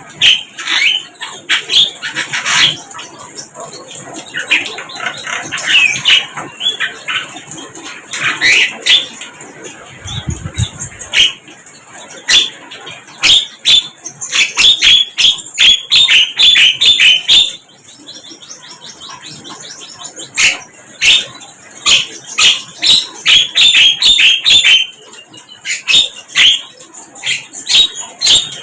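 Sikatan londo, a flycatcher, singing: loud, rapid runs of sharp, high chirps, broken by a short pause about halfway through.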